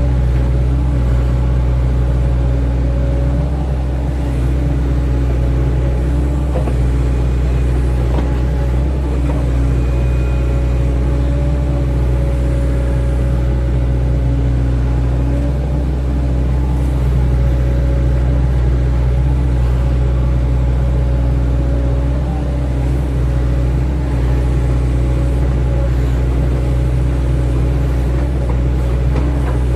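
Hydraulic excavator's diesel engine running steadily under working load, with slight dips in level about four seconds in and again near the end.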